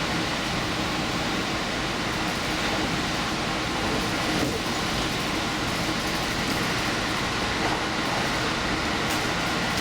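Diesel limited express train running at speed, a steady rumble of engine and wheels on rail heard from inside the front car.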